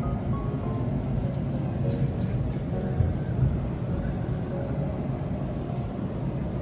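Steady low rumble of a car driving, with a brief knock about three seconds in.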